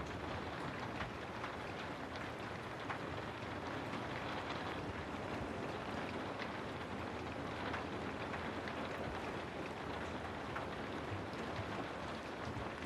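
Steady rain falling, an even hiss with scattered individual drop ticks spattering through it.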